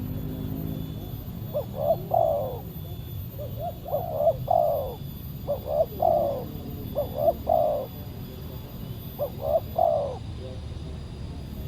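Spotted dove (tekukur) cooing: five short phrases of a few low notes each, a second or two apart.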